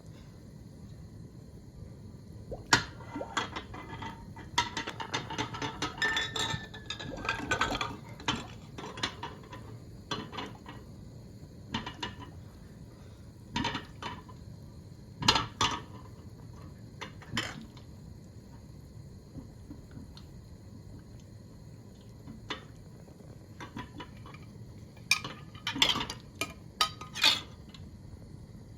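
Dishes and utensils clinking and knocking, with some handling of liquid. The clinks are scattered, with a busy run between about three and eight seconds in and another cluster near the end.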